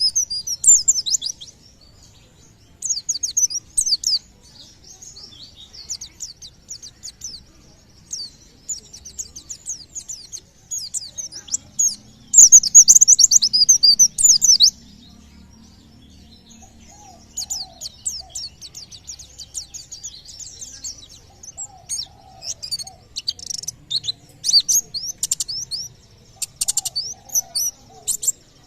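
White-eye (pleci) singing in repeated bursts of fast, high chirping notes separated by short pauses. The loudest burst comes about halfway through.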